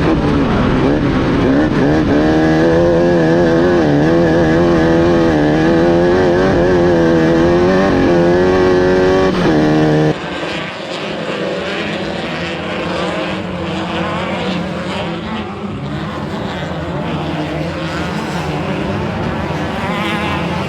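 Off-road race car engine running hard, its pitch rising and falling with the throttle. About halfway through, it drops abruptly to a quieter, rougher engine and tyre noise.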